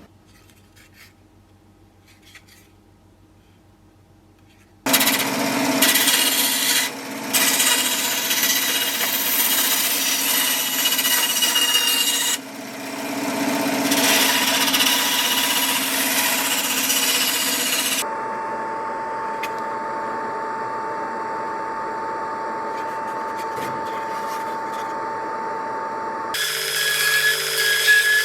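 Power tool working on material, rasping loudly after about five near-quiet seconds, with a short dip partway through. It then gives way to a steadier, quieter run with a single held whine, and a different loud tool sound starts near the end.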